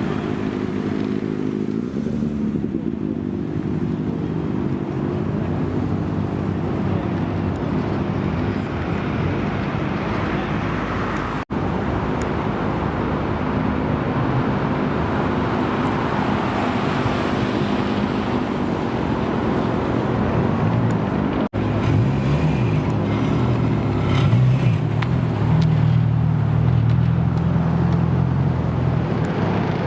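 Car engines idling steadily, in three stretches split by abrupt cuts; the last stretch is a louder engine with a lower, heavier tone.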